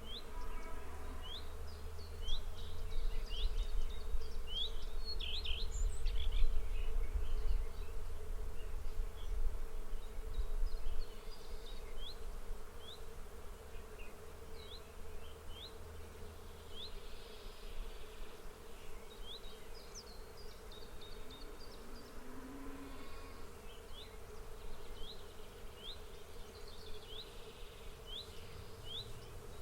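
Insects buzzing in a field, with a steady hum, while a bird repeats a short rising chirp about once a second. A low rumble runs under the first half and then drops away.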